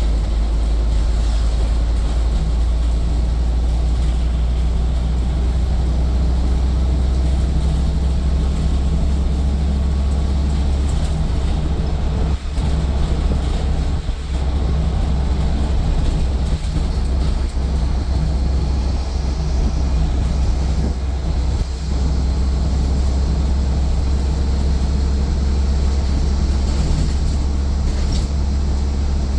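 Scania N230UD double-decker bus heard from inside the cabin, its five-cylinder diesel engine and drivetrain running with a steady low drone. The level dips briefly a few times in the middle.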